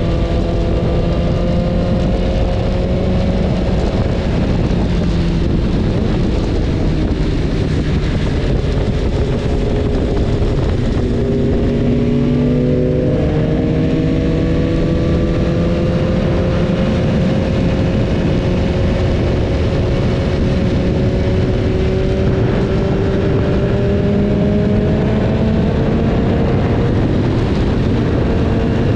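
BMW S1000RR's inline-four engine running under way, under heavy wind rush. Its pitch sags and shifts about halfway through, then climbs slowly.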